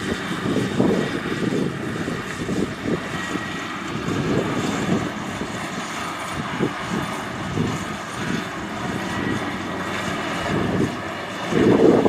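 Kubota DC-70 Plus combine harvester running, a steady diesel engine and machinery drone with an uneven low rumble and a faint high whine.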